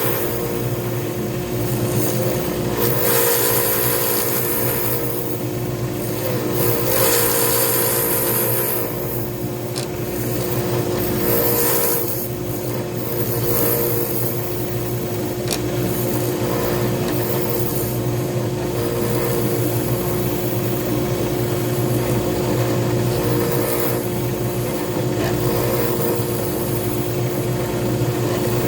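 Pen-turning lathe running steadily with a motor hum, while a tool works the spinning pen blank in several bursts of scraping hiss.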